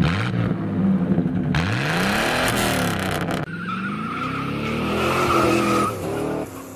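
Car engines revving in rising and falling sweeps, with a drawn-out tyre squeal in the second half, fading out near the end.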